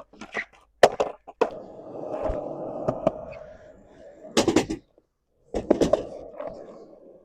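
Skateboard rolling on its wheels, then a loud clack of the tail pop about four seconds in, and another clack as the board lands about a second later before it rolls on. The rolling and clacks are of a fakie big spin attempt that is landed.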